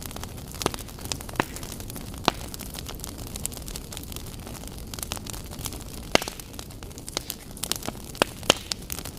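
Wood fire crackling: irregular sharp pops and snaps over a steady low rumble of burning, with the loudest pops about six seconds in and near the end.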